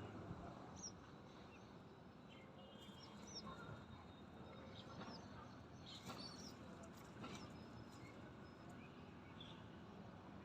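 Faint, scattered chirps of small birds, with a few soft clicks, over low steady background noise.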